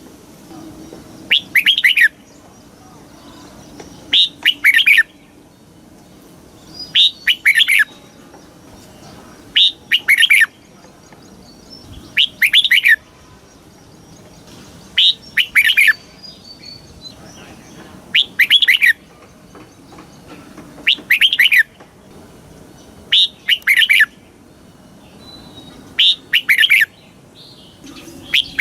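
Red-whiskered bulbul singing the same short, quick song phrase over and over, about ten times, one roughly every three seconds.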